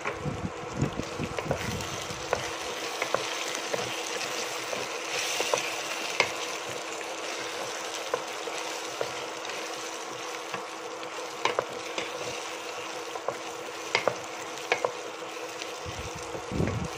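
Chopped seafood balls sizzling in butter and oyster sauce in a stainless steel pot as a wooden spatula stirs them, with scattered scrapes and taps of the spatula against the pot. A steady hum runs underneath.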